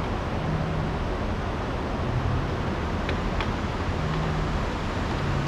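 Steady rushing background noise with a low rumble, with two light clicks a little after three seconds in.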